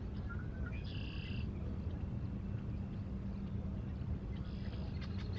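Birds calling over a steady low rumble: one short high call about a second in, then a quick run of short calls near the end.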